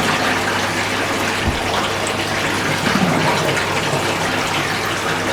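Water rushing steadily into a Fisher & Paykel washing machine, over a steady low hum.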